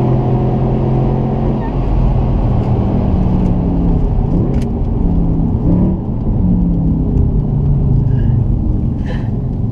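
Audi RS4 B7's 4.2-litre V8 running on the move through an exhaust with the rear silencers bypassed. Its note holds steady for a few seconds, shifts up and down in pitch from about three to six seconds in, then settles into a steady note again.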